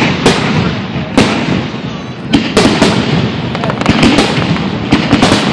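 Aerial firework shells bursting overhead in quick succession: a sharp boom about every second, each trailing a rolling echo.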